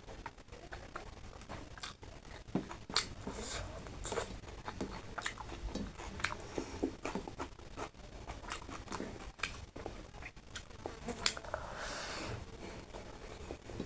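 Close-up eating sounds: a person chewing and biting food, with irregular sharp mouth clicks.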